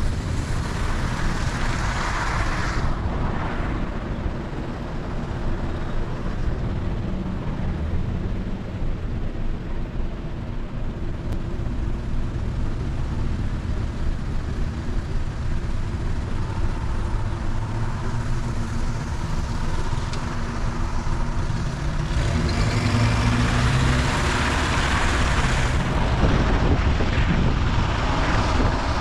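A car driving along a road: steady engine and road rumble, with a hissing noise that swells at the start and again about three-quarters of the way through.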